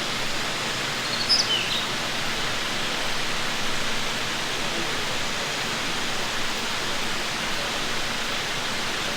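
Steady outdoor rushing noise, like running water, with a couple of short high chirps about a second and a half in.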